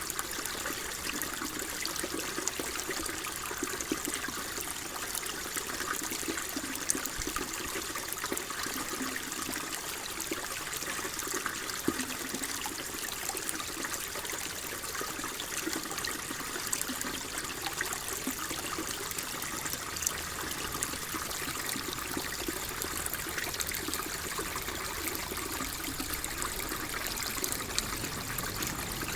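Water flowing and trickling steadily, with small splashes and drips scattered through it.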